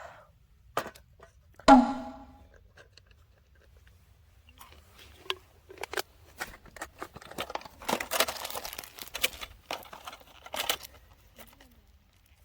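A click, then a short clink that rings briefly near two seconds in, followed by several seconds of dense crinkling and crackling handling noise with many sharp clicks.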